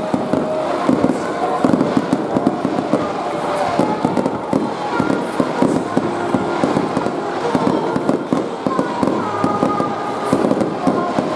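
Aerial firework shells bursting in quick succession, a dense run of bangs and crackle, with stadium crowd voices and music underneath.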